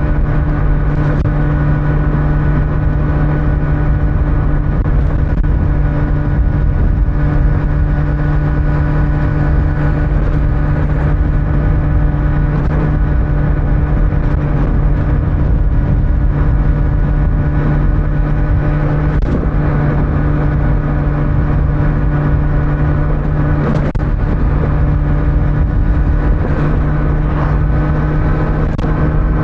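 Kawasaki Z900's inline-four engine cruising at a steady pitch on the stock exhaust, with wind and road noise.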